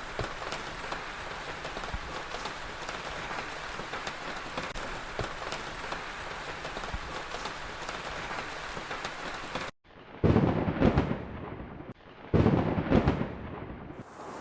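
Heavy rain falling steadily, with scattered sharp drop impacts. About ten seconds in, it cuts off suddenly and two loud thunder claps follow, each rumbling for about a second.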